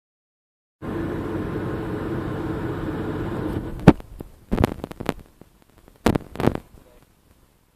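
GMC truck's 427 big-block V8 idling steadily, starting just under a second in. The idle drops away sharply after about three seconds, and a handful of short, loud knocks follow.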